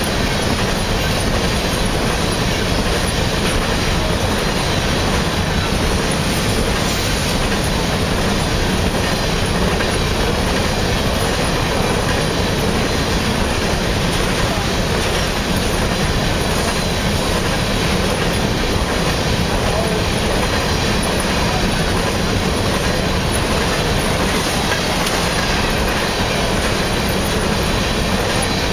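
Empty covered hopper cars of a freight train rolling past close by: steel wheels running steadily on the rails with no let-up.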